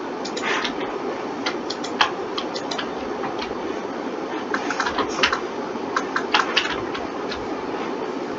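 Irregular clicks of a computer keyboard and mouse, sometimes several in quick succession, over a steady hum.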